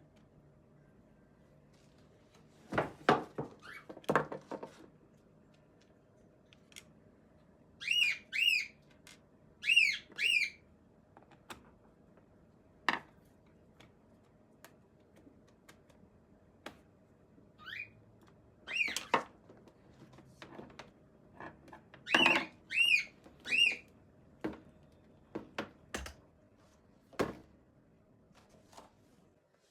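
Scattered clicks and knocks of a plastic hair dryer housing and its parts being handled during disassembly and inspection. Short, high, chirping squeaks come mostly in pairs, several times.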